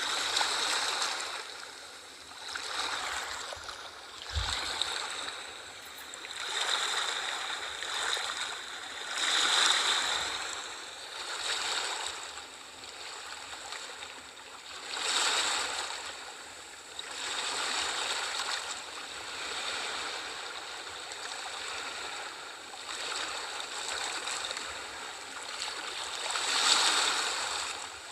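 Sea waves washing in and drawing back, a hiss of surf that swells and fades every few seconds.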